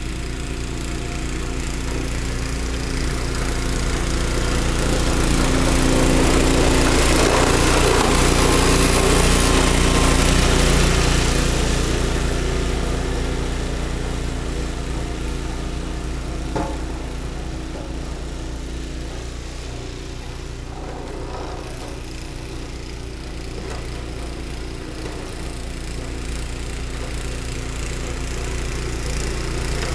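Ariens 20-inch two-stage snowblower's 5 HP Tecumseh engine running steadily while clearing snow, growing louder for several seconds in the first half and then easing back.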